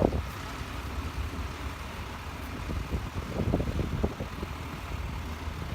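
Tractor engine running with a steady low rumble, louder for a moment about three and a half seconds in.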